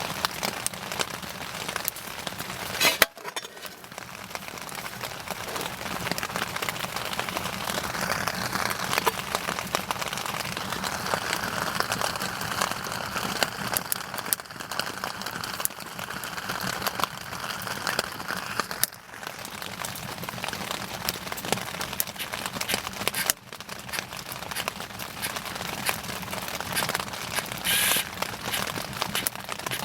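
Wood bonfire burning, crackling and popping continuously with many small snaps, and one louder pop about three seconds in.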